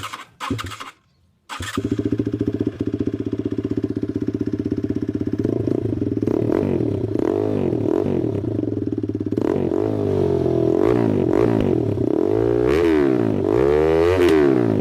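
Z200II motorcycle engine through an SC Project aftermarket exhaust: after two brief starter bursts it catches about a second and a half in and idles. From about five seconds in it is revved repeatedly, each rev rising and falling, with the highest revs near the end.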